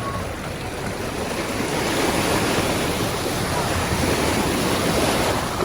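Sea waves washing, swelling to a peak in the middle and easing off, with wind rumbling on the microphone.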